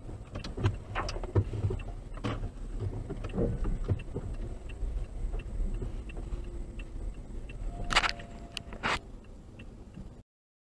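Car on the road, heard from a dashcam: a steady low rumble with scattered knocks and clicks, then two sharp bangs about a second apart near the end, and the sound cuts off abruptly.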